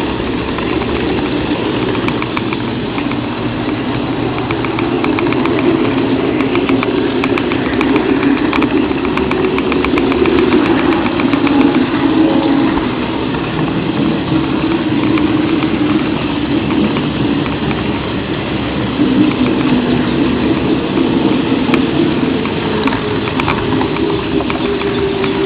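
HO-scale model train running along the track, heard from a camera riding on it: a steady motor and wheel rumble with light, fast clicking from the wheels over the rails.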